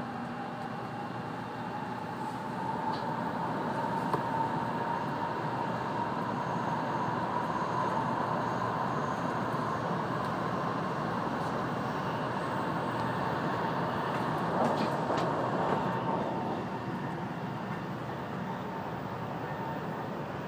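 Running noise heard inside a 700-series Shinkansen car in motion, a steady rush with a thin whine that rises slightly in pitch over the first few seconds, holds, and drops away about three-quarters through as the noise eases.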